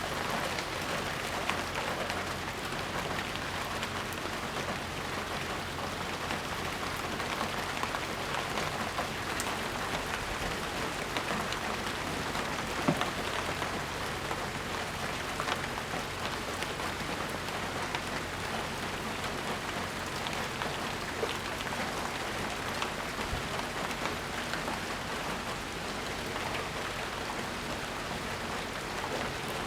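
Steady rain falling, a continuous hiss with many small drops pattering on surfaces, and an occasional louder drip.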